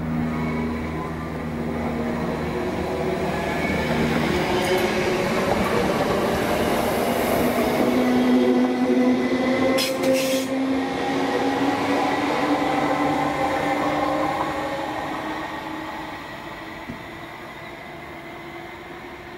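Electric multiple unit train running past at speed, its motor whine and wheel-on-rail noise growing to a peak about eight to ten seconds in, with a brief sharp high-pitched squeal near the peak, then fading away as it recedes.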